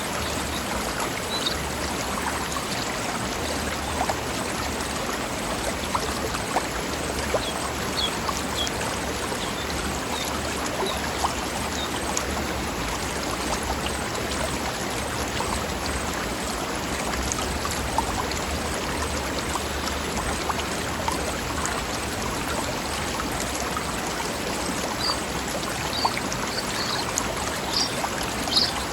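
Mountain stream flowing over rocks: a steady babbling rush of water, with occasional brief louder splashes standing out.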